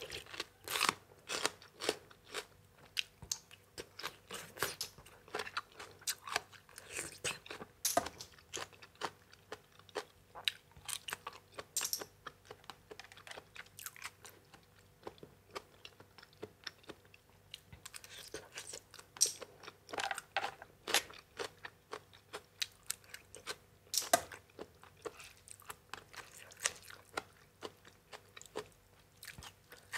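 A person chewing and crunching food close to the microphone while eating papaya salad with crisp raw vegetables: a steady run of short crisp crunches and chewing clicks, with a few louder bites past the middle.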